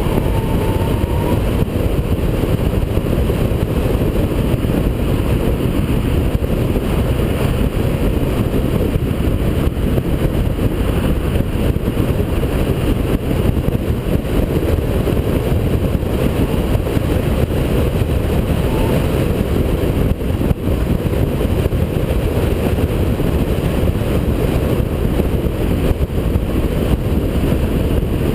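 Holden VP Commodore's 3.8-litre V6 running hard at speed, a loud, steady drone of engine and road noise that does not let up.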